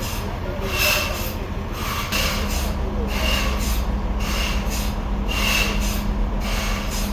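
Repeated rasping strokes, about one and a half a second, over a steady low machine hum.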